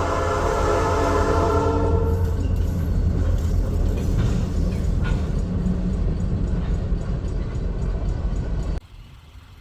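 A horn sounding a chord of several notes, stopping about two seconds in, over a loud, steady low rumble that cuts off abruptly near the end.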